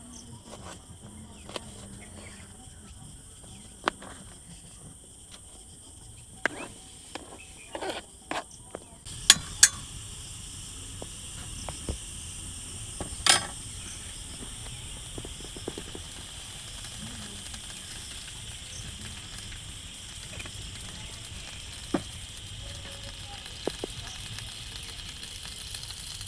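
Steady high-pitched insect chorus, crickets trilling, with scattered sharp clicks and knocks; about nine seconds in, a louder hiss comes in under the chorus.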